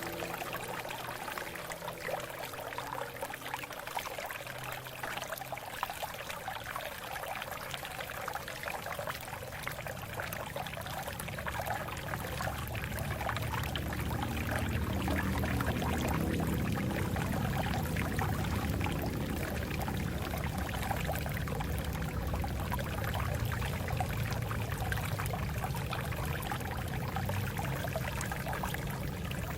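Water flowing over rocks, a steady splashing and trickling, with a deeper rushing that grows louder about halfway through.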